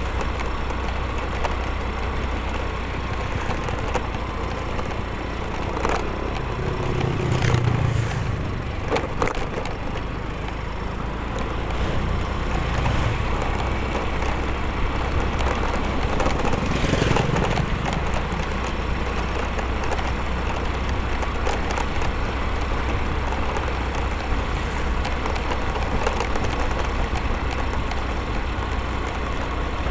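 Motorcycle riding along a road: steady engine and road noise with a low rumble, swelling briefly about seven seconds in and again a little past halfway.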